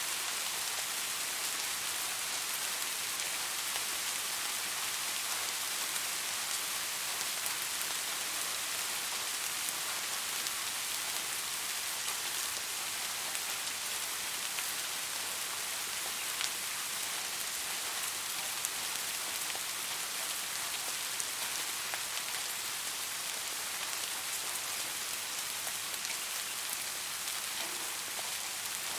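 Soft rain falling steadily, an even hiss with scattered small drop ticks.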